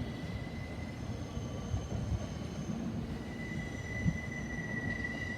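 JR West 225 series 5000 subseries electric train running, a low rumble with a steady high-pitched whine that fades about a second in and comes back about three seconds in.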